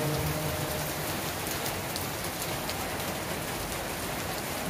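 Heavy rain pouring onto a flooded street, a steady hiss of drops splashing into standing water, with a few sharper drop taps about two seconds in.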